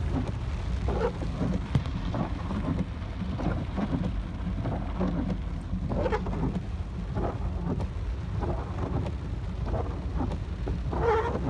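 Heavy thunderstorm rain pouring down, an even hiss over a steady low rumble.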